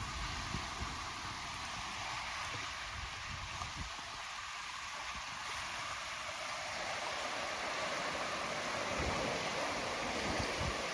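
Gentle ocean surf washing on a beach, a steady hiss that swells louder in the second half as a wave comes in, with gusty wind rumbling on the microphone.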